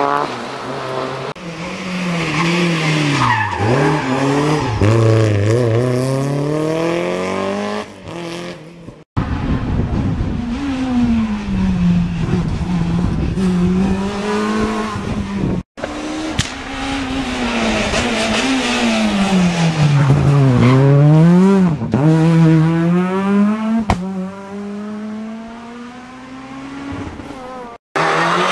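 Rally cars driven hard one after another, each engine revving up and down through quick gear changes as it approaches and passes, then fading away.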